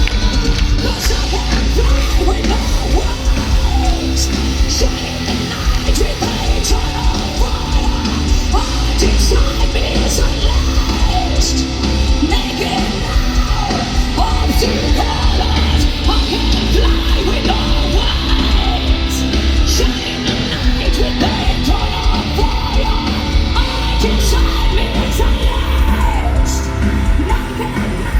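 Metal band playing live and loud, with heavy pounding drums, distorted guitars and cymbal hits, and a singer screaming harsh vocals over it.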